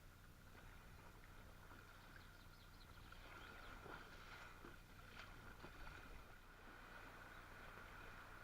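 Near silence: faint outdoor ambience with a few soft clicks near the middle.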